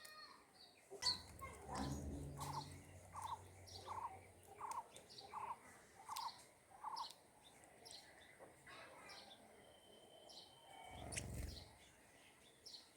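A bird calling a short note over and over, about eight times, evenly spaced and a little more than one a second, with a faint low hum under the first calls.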